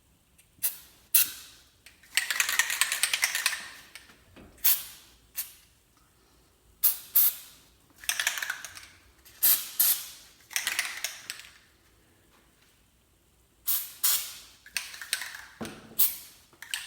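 Aerosol can of lithium grease spraying in a string of short hissing bursts, with one longer spray about two seconds in, as the garage door's pulleys and hinges are lubricated to stop them squeaking.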